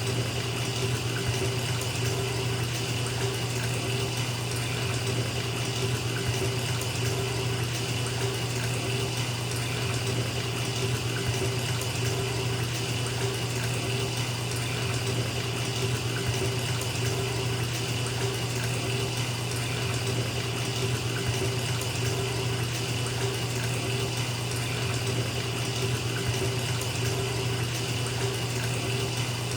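Bathtub tap running full into a filling tub: a steady, unbroken rush of water with a low hum underneath.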